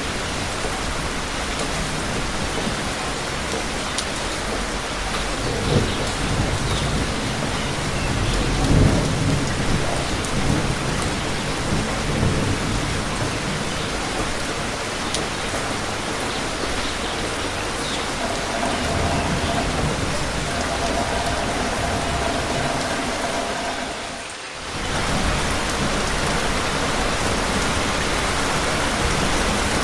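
Steady rain falling, with low rumbles of thunder rising and fading through the first half. The sound dips briefly about three-quarters of the way through.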